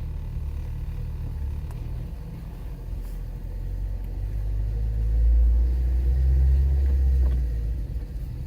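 Car driving, a low steady rumble that grows louder about five seconds in.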